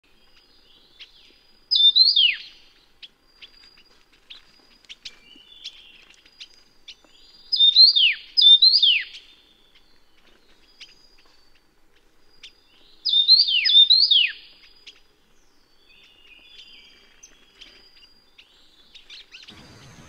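Taiwan yuhina singing short, loud, high phrases, each a quick run of notes ending in a steep downward slur. One phrase comes about two seconds in, two come back to back around eight seconds, and two more around thirteen seconds. Fainter chirps fill the gaps between them.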